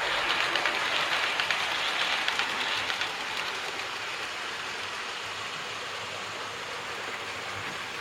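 Model train running along the layout's track: a steady rolling rush with fine rapid clicking from the wheels, loudest over the first three seconds and then easing off.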